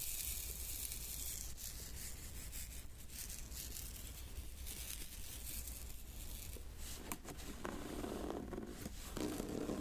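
Fingertips rubbing and scratching across a diamond painting's resin beads: a soft, steady scratchy hiss with a few light clicks.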